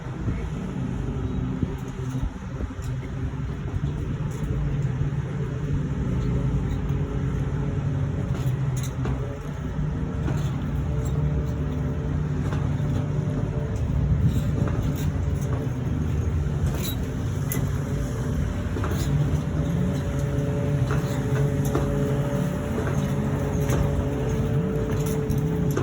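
Steady low engine drone with several held tones running through it, and scattered short clicks.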